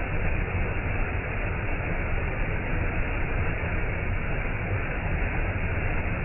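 Waterfall: a steady rush of falling water, heaviest in the low end.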